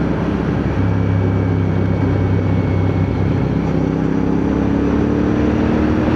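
CFMoto 450NK motorcycle's parallel-twin engine running steadily while riding, with heavy wind rush over it. The engine note rises slightly in the second half.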